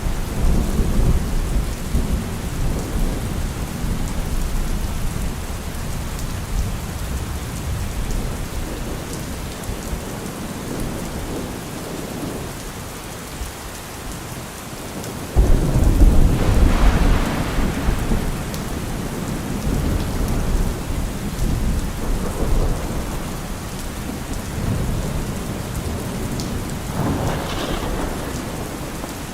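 Steady rain falling on trees, with thunder rumbling low at the start; about halfway through a loud thunderclap breaks in and rolls away over several seconds.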